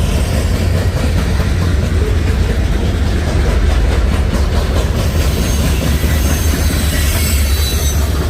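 A long freight train rolling past with a steady, heavy low rumble from its cars on the rails. Faint high wheel squeals come in during the second half.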